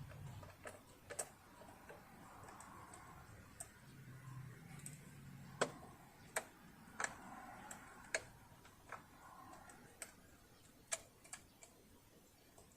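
Scattered sharp clicks and light taps at irregular intervals, about a dozen in all, from small metal parts and tools being handled on a partly dismantled household sewing machine. A faint low hum runs for a few seconds in the first half.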